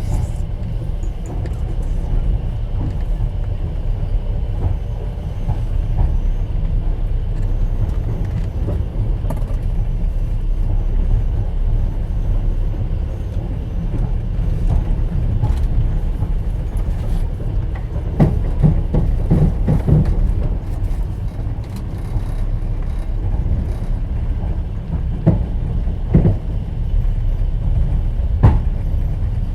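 Passenger train running, heard from inside an open-plan sleeper carriage: a steady low rumble of the wheels on the rails. Scattered clicks and knocks stand over it, clustered a little past halfway with a few more near the end.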